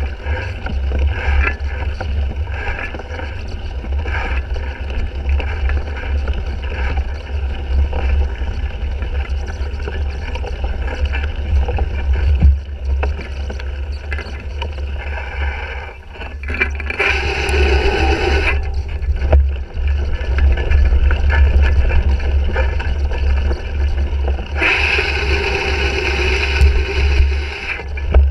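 Wind buffeting the microphone of a bike-mounted GoPro Hero 3 as the cyclocross bike is raced, with the bike rattling and scraping over rough ground. Two louder rushing stretches come about 17 and 25 seconds in.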